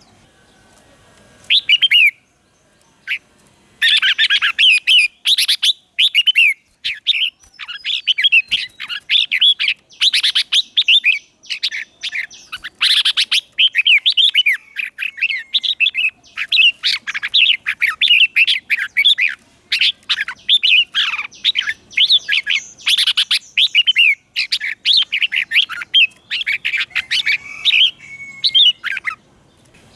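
Red-whiskered bulbul singing a long, near-continuous run of quick, warbling phrases: a decoy bird's song used to call in wild bulbuls. The singing starts about a second and a half in and stops just before the end.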